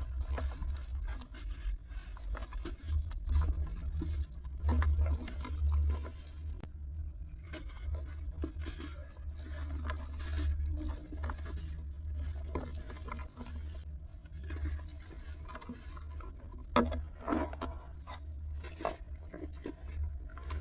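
Something brittle crumbling and crunching, with scattered crackles and scrapes and louder clusters of breaking now and then, over a steady low rumble.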